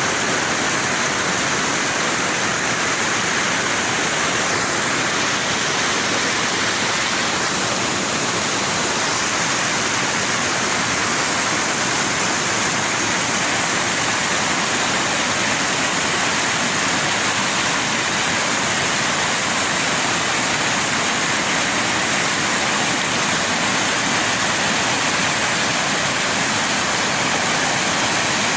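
Loud, steady rush of storm water with no breaks, the sound of heavy rain and flash-flood runoff.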